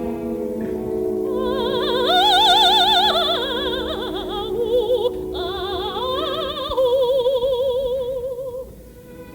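Operatic soprano singing with wide vibrato over sustained symphony orchestra chords: a high held note, descending runs, then a long lower note that fades away near the end. Heard through an off-air broadcast recording.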